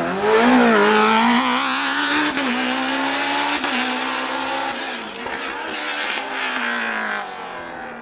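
Race car engine at full throttle on a hillclimb course, revving high, with its pitch swinging up and down early on and then holding before it fades away near the end.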